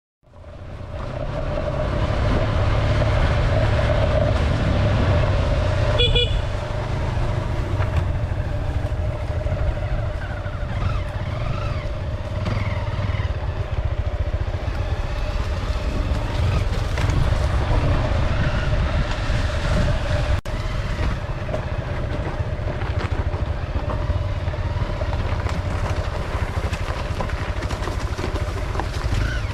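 Off-road motorbike engine running steadily during a downhill ride, with a heavy low rumble that may be wind on the microphone. A short beep sounds about six seconds in.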